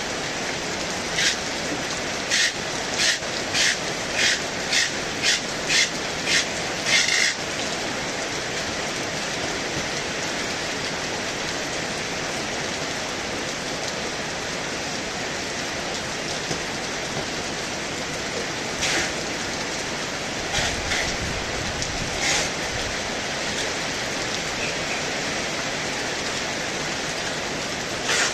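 Heavy rain falling steadily, with a quick run of about a dozen short, sharp taps in the first seven seconds and a few more later on. A brief low rumble comes about twenty seconds in.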